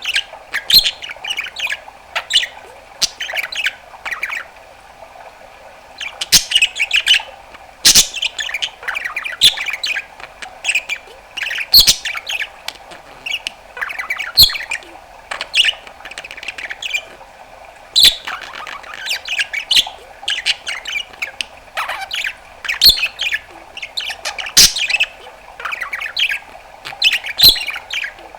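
Budgerigar warbling and chattering in fast runs of chirps, trills and squawks, with sharp clicking pops mixed in, broken by short pauses.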